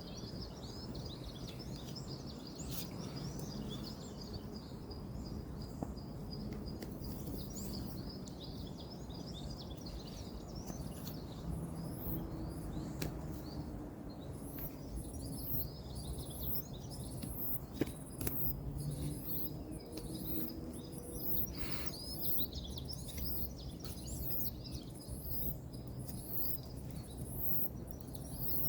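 Outdoor woodland ambience: a steady low rumble of distant road traffic with birds chirping throughout. From about halfway, a high, even pulse repeats about once a second, and there are a couple of sharp clicks.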